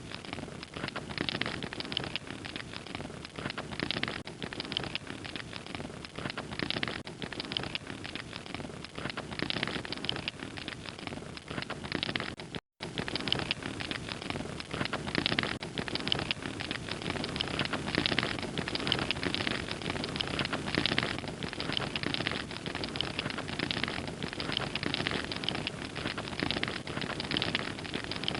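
Wood fire crackling, with a continuous hiss of flames and dense irregular snaps and pops. The sound drops out completely for a split second about thirteen seconds in, then carries on.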